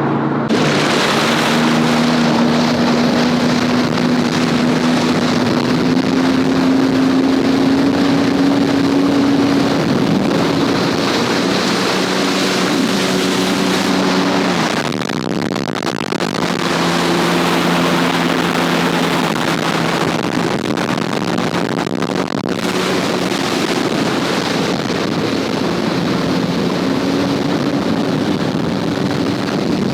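Sea-Doo GTX 300 jet ski under way, its supercharged three-cylinder engine running steadily with the pitch rising and dropping several times as the throttle changes, over rushing wind and water.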